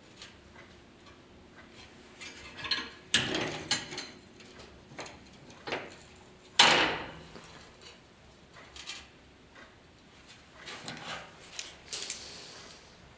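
Sporadic metallic clinks and knocks of steel pieces and hand tools being handled on a bench. The loudest is a sharp knock about six and a half seconds in that rings briefly.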